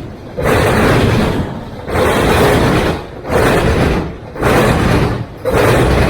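Freight train cars rolling past close by, a loud rumble and rattle that swells and drops about once a second as each car goes by.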